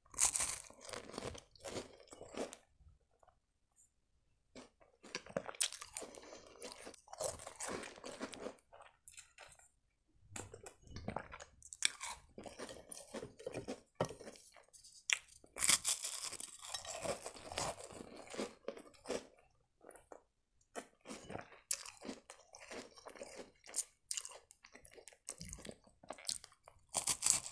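Crunching and chewing of crisp, round, cream-filled sandwich biscuits. The bites and chews come in irregular bursts, with short pauses between them.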